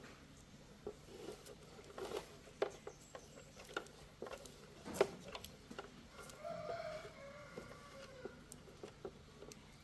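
Scattered light clicks and taps of small hand work. About six seconds in, a faint drawn-out animal call with several stacked tones lasts about two seconds.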